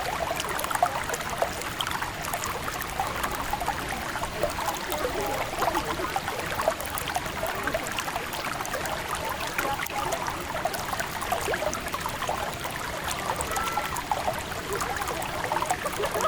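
River water flowing steadily, a continuous splashing rush of many small ripples.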